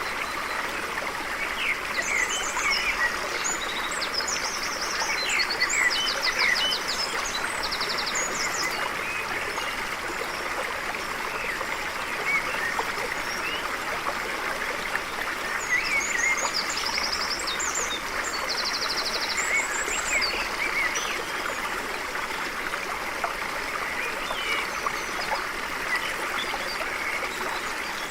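A stream flowing steadily over rocks, with birds singing: short chirps and fast trilled calls, in bursts about two seconds in and again past the middle.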